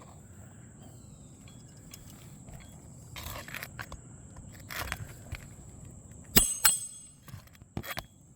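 Roofing hatchet driving roofing nails into asphalt shingles. A couple of short scrapes come first, then two sharp ringing metal blows a little past halfway and lighter taps near the end.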